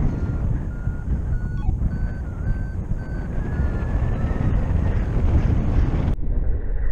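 Paragliding variometer beeping about twice a second, its pitch creeping higher, the sign of the glider climbing in a thermal; the beeps stop about two-thirds of the way through. Steady wind rushes over the microphone throughout.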